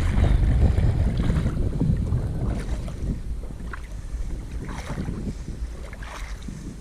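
Wind buffeting the microphone, a gusty low rumble that eases off after about two seconds, with a few faint ticks.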